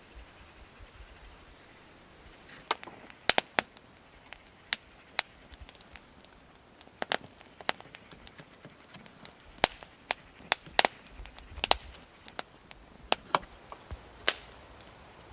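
A string of sharp, irregularly spaced cracks and snaps, about twenty of them, starting a few seconds in and stopping shortly before the end, over a faint outdoor hiss.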